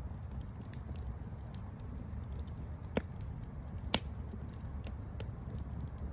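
Campfire burning with a low steady rumble and scattered small crackles, two louder pops of burning wood about three and four seconds in, the second the loudest.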